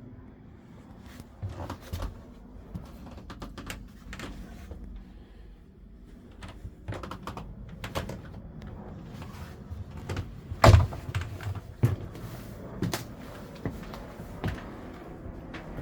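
Irregular knocks and clicks, loudest about ten and a half seconds in, over a faint low rumble.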